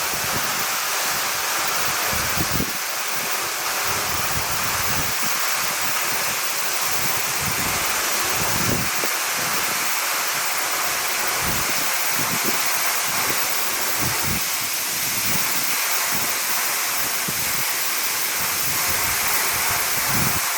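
Steady rushing of a tall vertical waterfall, about 40 m high, pouring into its plunge pool. Wind buffets the microphone now and then with low thumps.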